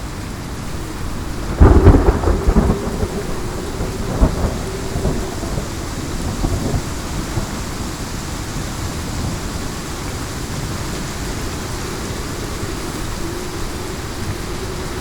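Heavy rain falling steadily, with a sudden loud thunderclap about a second and a half in that crackles and rumbles on for several seconds before fading back under the rain.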